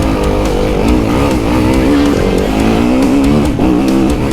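Enduro motorcycle engine running on a motocross track, its pitch rising and falling as the throttle is worked.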